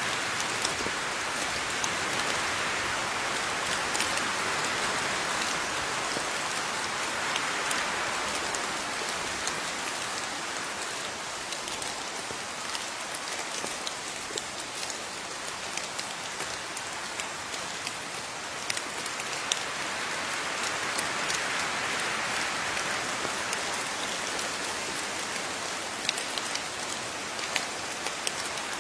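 Steady rain falling, a continuous hiss that swells and eases slowly, with the sharp ticks of single drops hitting a surface scattered throughout.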